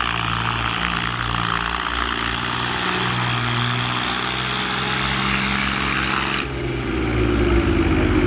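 Diesel tractor engine running steadily under load, its pitch rising near the end as it revs up.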